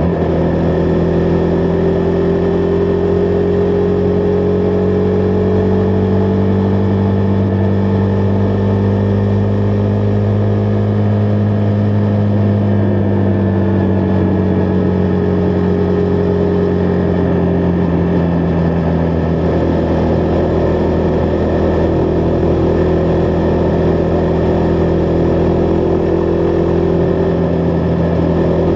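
Husqvarna Vitpilen 401's single-cylinder engine pulling along at a steady cruise, its pitch dipping slightly about halfway through and then holding level.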